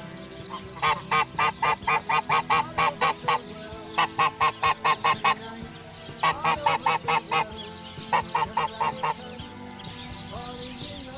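A bird honking in four quick runs of evenly spaced, nasal calls, about four calls a second, with short pauses between runs.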